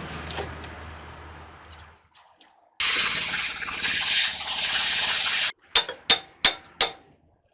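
A steady workshop hum fades out. Then comes a loud spraying hiss, cut off sharply after about three seconds, and then a quick run of sharp knocks, about three a second.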